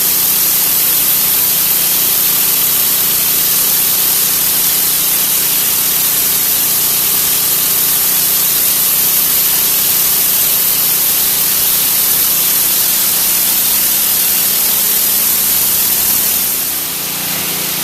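Pressure washer spraying a jet of water onto concrete, a steady loud hiss with the machine's engine running underneath. The spray cuts off about a second before the end while the engine keeps running.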